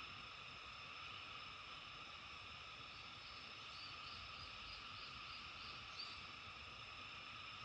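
Faint, steady chorus of frogs and insects in several overlapping high bands. In the middle comes a short run of about eight quick, evenly spaced high notes, ending in one sharper note.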